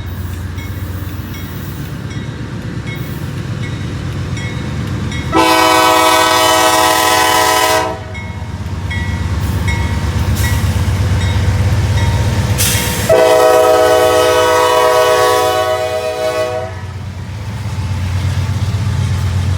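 Diesel freight locomotive passing with its engine rumbling, sounding its air horn in two long blasts, the second longer. Under it a grade-crossing bell rings too fast.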